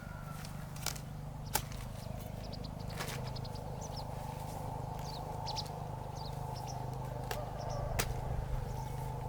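Short high bird chirps in a cluster through the middle, over a steady low hum, with a few sharp knocks scattered through.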